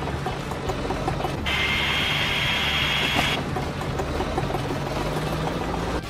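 Steady low engine drone of a vehicle sound effect. About a second and a half in, a high-pitched whine with a hiss joins it for about two seconds, then cuts off.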